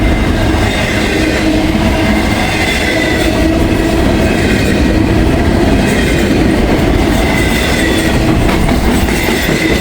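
Intermodal freight train rolling past at close range: a steady, loud rumble of wheels and cars on the rails with rhythmic clickety-clack.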